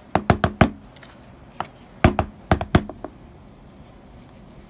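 Knocks on a kinetic sand container to loosen the sand inside, in two quick runs of about four raps each, the first at the start and the second about two seconds in. Each rap has a short hollow ring.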